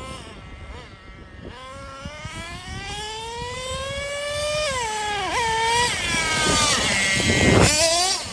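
Traxxas Revo 3.3's small two-stroke nitro engine revving out at full throttle, its high whine rising steadily in pitch and dipping briefly about five seconds in before climbing again and getting louder, loudest near the end. Wind buffets the microphone.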